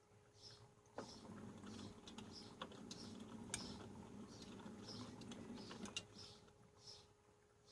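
Panasonic front-loading washing machine during its wash phase, heard faintly. The drum turns for about five seconds with wet laundry swishing and a few light knocks, then pauses, over a steady faint hum.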